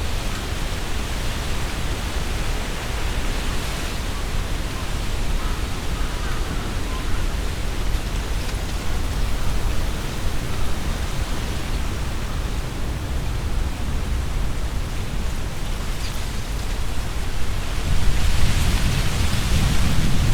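Strong wind gusting through trees, the leaves rustling, with low wind rumble on the microphone. A stronger gust builds near the end, louder in both the rumble and the rustle.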